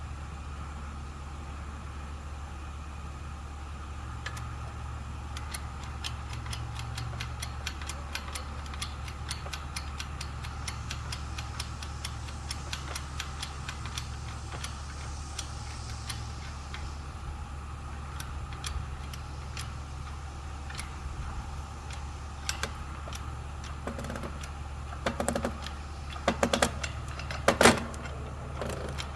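Homemade engine-hoist wood splitter being worked by hand, with many small metallic clicks and a few louder knocks near the end, over a steady low hum.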